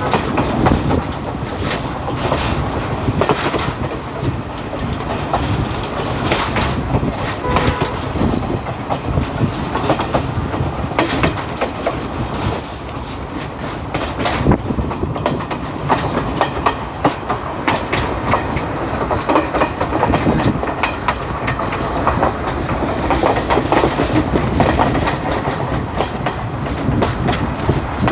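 Passenger train running along the track, with a steady rumble and quick, irregular clacks of the wheels over the rails.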